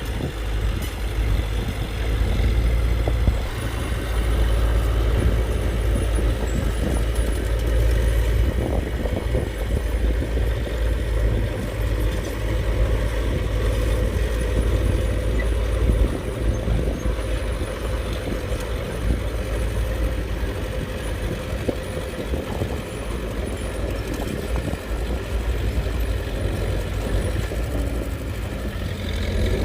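Diesel engine of heavy earthmoving machinery running steadily with a low rumble.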